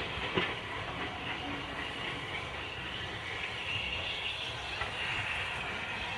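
Steam-hauled train running, a steady rumble and hiss with a couple of sharp clicks just after the start.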